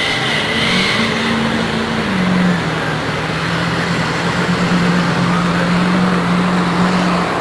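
Truck engines running hard at high revs under load in a truck pull, the pitch stepping up about a second in, dropping back near two seconds, then holding steady.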